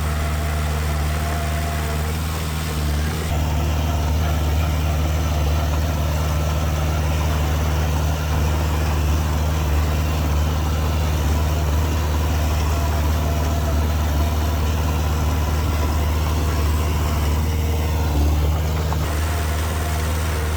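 Diesel engine of heavy earthmoving machinery, a bulldozer or dump truck, running steadily at a low, even pitch near idle. The tone shifts slightly a few seconds in and again near the end.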